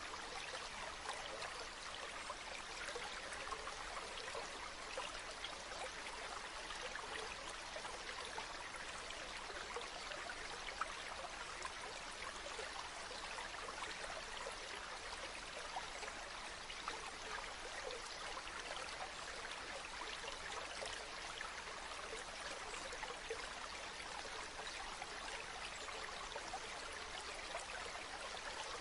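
River water flowing steadily over stones, a constant rushing with fine babbling flickers.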